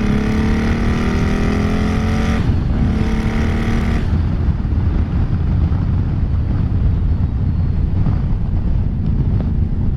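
Turbocharged Harley-Davidson 107 V-twin under hard acceleration, its pitch rising, with a short break about two and a half seconds in. About four seconds in the rising tone stops, and a steady low engine rumble with wind noise carries on.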